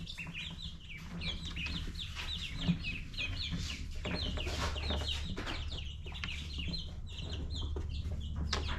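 A brood of young ducklings peeping continually, many short, high, falling peeps overlapping one another, over a low steady hum.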